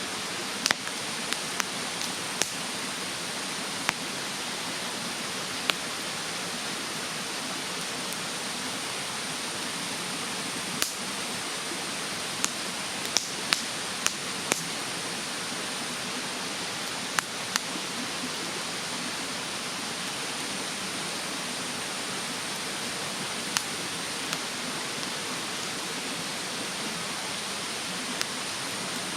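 Wood fire crackling in a fire stand, with sharp scattered pops that come in clusters, over a steady rushing hiss of a mountain stream.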